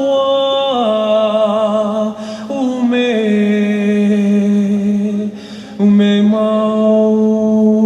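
A single voice chanting in long held notes with a wavering pitch, stepping down between phrases, with short pauses for breath about two and five and a half seconds in.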